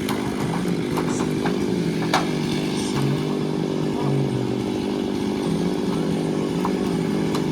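Two-stroke chainsaw running steadily, its engine pitch wavering a little, with a few short sharp knocks over it.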